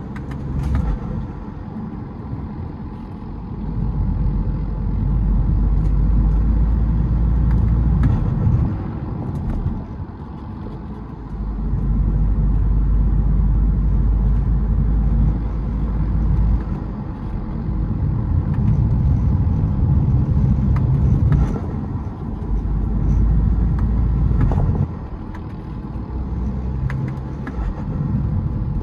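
BMW 320d four-cylinder turbodiesel with a K&N cold air intake pulling under load in repeated spells, easing off briefly between them, as when accelerating through the gears.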